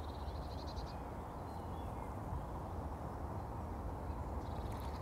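Quiet outdoor ambience with a low steady rumble and faint bird trills, one near the start and one near the end.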